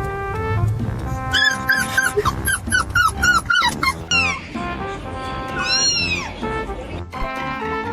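A cat meowing over background music: a quick run of short, falling meows, about four a second, then one longer meow that rises and falls.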